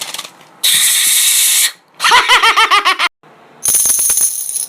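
Short sound effects alternating with a toddler's vocal imitations: a burst of hissing noise about a second in, then a fast run of repeated voice-like syllables, and a high ringing sound near the end.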